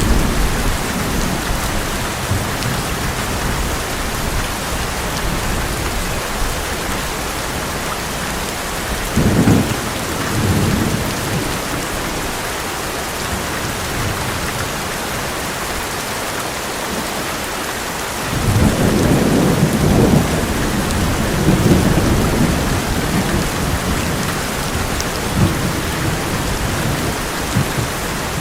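Heavy rain drumming steadily on an old metal roof, with thunder rumbling twice: a shorter roll about nine seconds in and a longer, louder one starting about halfway through.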